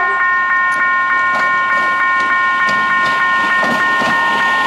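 CSR electric multiple unit approaching and running past, its wheels on the rails growing louder in the second half. Throughout, a steady high electronic tone pulses about three times a second.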